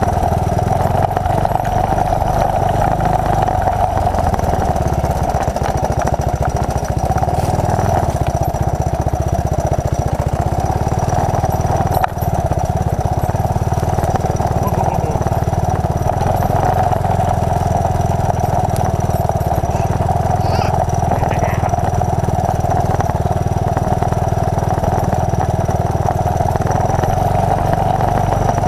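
1981 Honda XL185 trail bike's single-cylinder four-stroke engine running steadily as the bike is ridden.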